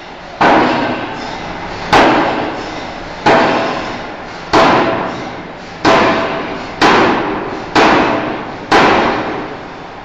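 Forging hammer striking a steel bar: eight heavy blows, each ringing out for about a second, coming a little faster toward the end, over a steady machine hum.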